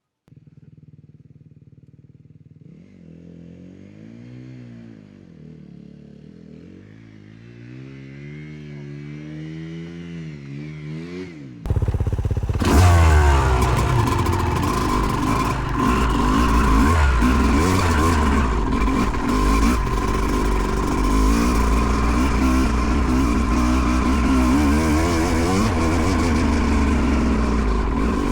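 Dirt bike engine revving up and down repeatedly, heard from a distance and slowly getting louder, as the bike struggles for traction in mud. About twelve seconds in, the sound switches suddenly to a loud close-up of a dirt bike being ridden hard, engine running over a steady hiss.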